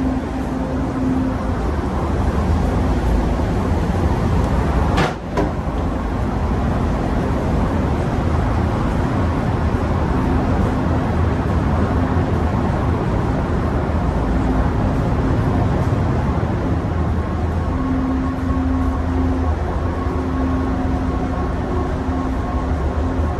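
Steady low engine rumble with a broad running noise and an on-and-off hum, broken by a brief sharp dropout about five seconds in.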